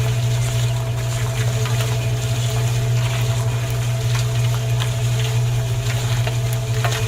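A small motor running steadily with a low, even hum and faint clicking throughout.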